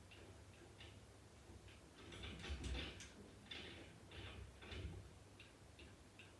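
A small bird chirping faintly, short high chirps repeating about twice a second. In the middle comes a run of louder rustling and knocking noises that drowns the chirps for a few seconds.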